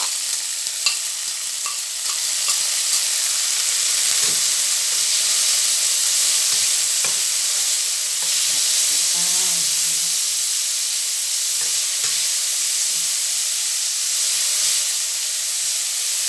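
Bean sprouts sizzling steadily as they fry in hot garlic oil, with a spatula stirring them and lightly tapping and scraping the pan now and then.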